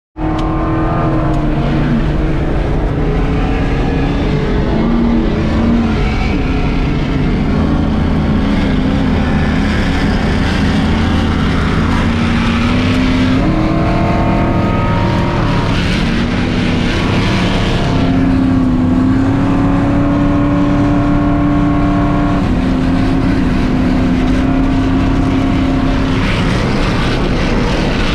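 Off-road race truck's engine running hard without a break, its pitch climbing, holding and dropping several times as the revs change, over a heavy low rumble.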